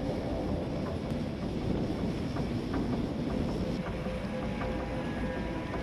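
Aircraft engine noise: a steady low rumble with a few steady tones above it.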